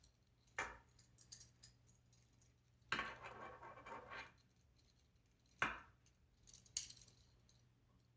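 Small robot parts being handled and fitted by hand on a table: scattered clicks and light knocks, with a rattling, clinking stretch of about a second around three seconds in, over a faint steady low hum.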